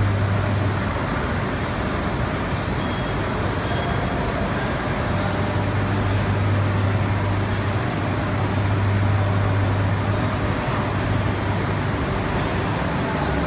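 E3 series Shinkansen train standing at a platform with its doors open, its onboard equipment running with a steady low hum over an even rushing noise. The hum weakens briefly about a second in and comes back strongly.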